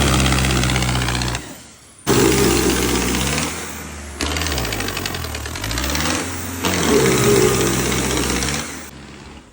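Turbocharged diesel engine of a modified Ford 3600 tractor being revved, its pitch dropping and climbing again several times, heard as a few short clips joined with abrupt cuts.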